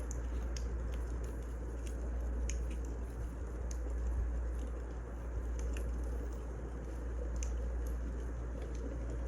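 Wood fire crackling: scattered, irregular sharp pops over a steady low rumble.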